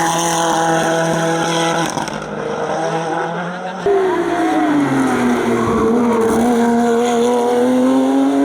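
Race car engines at full racing sound: for the first couple of seconds a steady engine note that then fades. About four seconds in, a louder car comes in abruptly, its engine pitch dropping and then climbing steadily as it accelerates.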